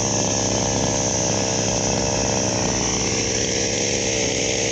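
Heavy diesel engine running steadily and loudly, an unbroken drone.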